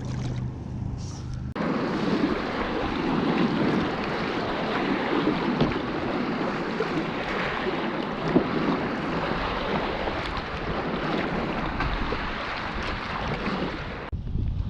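Wind and choppy lake waves splashing around a small boat on rough water: a dense, steady wash with wind buffeting the microphone. It starts abruptly about a second and a half in, after a low steady hum, and cuts off suddenly near the end.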